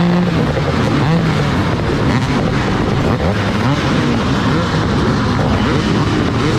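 Several motocross bikes racing, their engines revving up and down over one another in quick, overlapping rises and falls.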